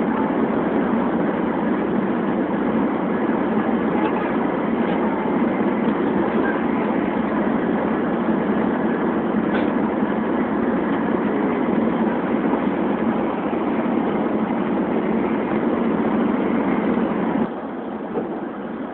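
Steady, even rush of a Shinkansen bullet train running at speed, heard from inside the carriage. It drops abruptly to a quieter level near the end.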